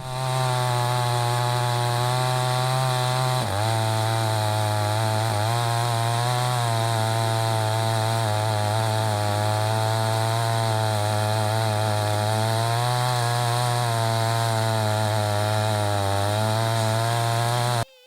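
Holzfforma G388 two-stroke chainsaw running steadily at high revs under load, ripping a hickory log lengthwise in a Granberg Alaskan chainsaw mill. It has a brief dip in pitch about three and a half seconds in, and starts and stops abruptly.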